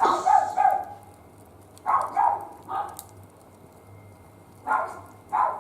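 A small dog barking in short, high-pitched yaps, a few at a time, in several clusters.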